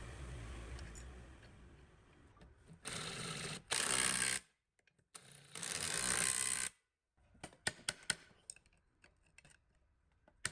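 Workshop work on a metal machine: about three seconds in come three loud bursts of hissing that start and stop sharply. After that comes a run of light clicks and taps.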